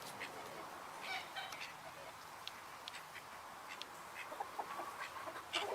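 Faint poultry sounds: scattered short chirps and clucks from fowl, with a few small calls growing more frequent near the end.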